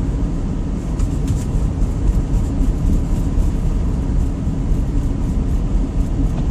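Pickup truck driving on a snow-covered road in four-wheel drive, heard from inside the cab: a steady low rumble of engine and tyres.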